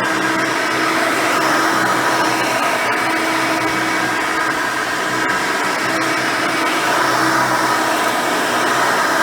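Hoover Elite 600 upright vacuum cleaner with a single-row brush roll running steadily while cleaning: a constant motor hum with a steady whine.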